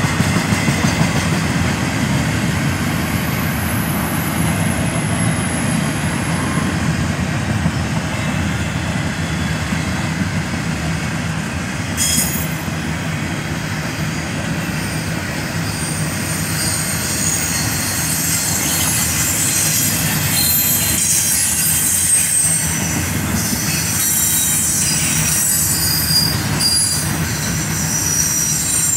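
Double-stack container cars of a freight train rolling past: a steady rumble of steel wheels on the rails. High-pitched wheel squeal starts about twelve seconds in and gets stronger and busier through the second half.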